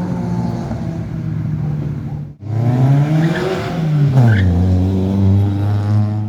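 A car engine runs at steady revs, then cuts off abruptly about two seconds in. A second engine is heard accelerating hard, its pitch rising, dropping back about a second and a half later, then holding steady.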